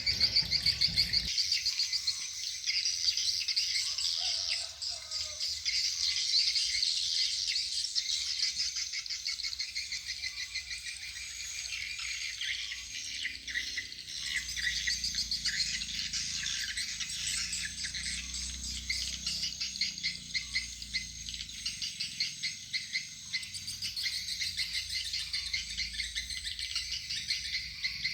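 Swiftlet lure call (suara panggil) played through tweeter speakers: dense, rapid high-pitched chirping trills that pulse in a quick, even rhythm.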